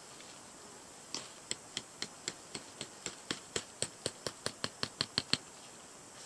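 A run of about nineteen sharp clicks, about four a second at first and speeding up, getting louder toward the end, then stopping abruptly.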